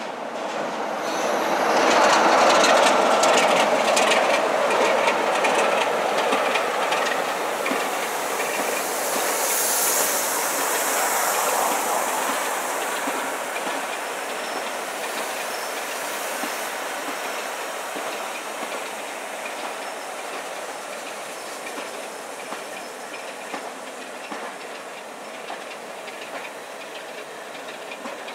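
A train running past close by. It is loudest about two seconds in as the front passes, then the coaches roll by with the wheels clicking over the rail joints, fading slowly.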